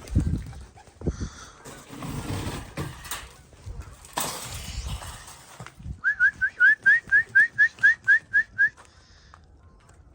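Irregular rustling and low thumps, then about a dozen short, rising whistled notes in a quick even run, about four a second, ending abruptly.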